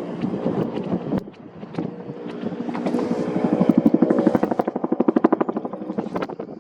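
Bell UH-1N Huey helicopter flying past: a steady turbine hum with the fast, even beat of its two-bladed main rotor, which grows loud through the middle and fades near the end.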